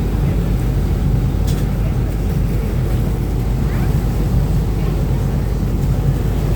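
Uber Boat river-bus catamaran under way at speed, heard from its open deck: a steady low engine drone with rushing water and wind.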